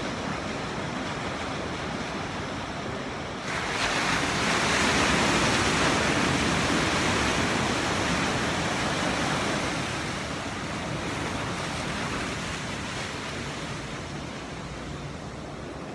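Ocean surf: a steady wash of waves, with one wave breaking about three and a half seconds in, its rush swelling and then slowly fading away over the next several seconds.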